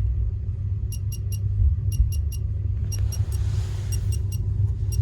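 Passenger train running: a steady low rumble with light rattling ticks repeating throughout, and a brief hiss about three seconds in.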